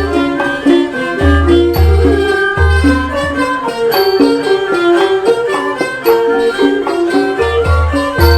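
Thai classical ensemble playing a busy overture (hom rong): quick interweaving melodic lines over occasional deep, booming low strokes.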